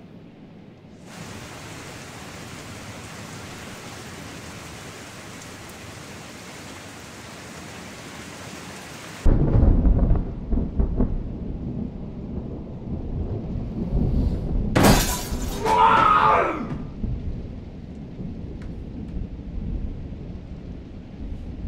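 Steady rain hiss, cut off abruptly about nine seconds in by a loud, low rumble of thunder. A sharp crack about fifteen seconds in is the loudest moment, and the rumble then slowly fades.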